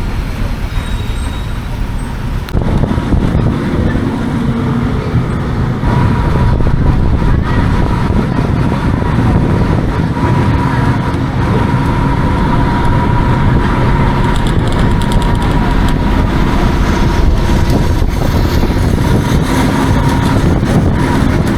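Hino AK176 city bus engine running under way, getting louder about 2.5 s in and again about 6 s in as it pulls harder, with a steady whine over the engine noise from then on.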